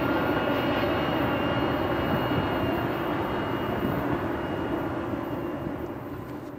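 Freight train rolling past, a steady heavy rumble with a thin high whine over it, fading out near the end.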